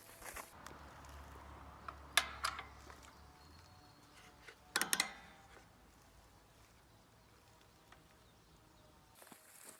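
A few sharp clicks and knocks, the loudest a quick cluster about five seconds in, over a faint low hum.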